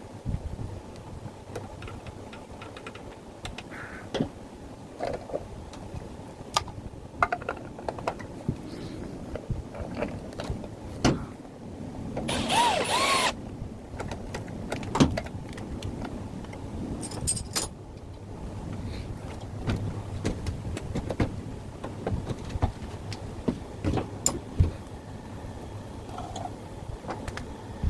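Scattered clinks, taps and knocks of metal parts and tools being handled, over a steady low hum, with a brief squeak about halfway through.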